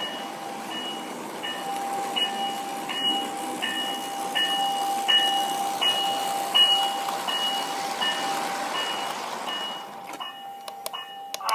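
Electronic bell dinging from a Lionel model train layout, a two-tone ding repeating about every 0.7 s over a steady tone and the hum of the running trains. Sharp clicks come in near the end.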